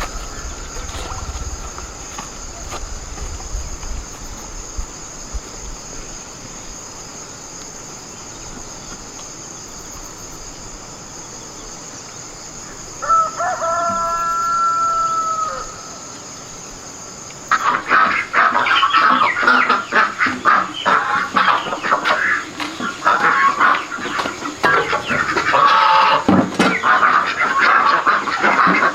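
A rooster crows once, a call of about two and a half seconds, midway through. Then, for the last ten seconds or so, chickens cluck and cackle loudly and rapidly.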